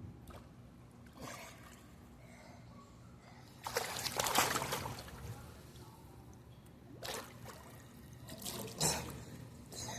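Water splashing in a few short bursts, the loudest about four seconds in.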